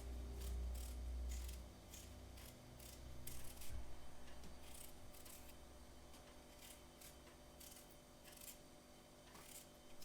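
A series of faint, short snipping or scraping strokes at an uneven pace, about one or two a second, with a low rumble during the first two seconds.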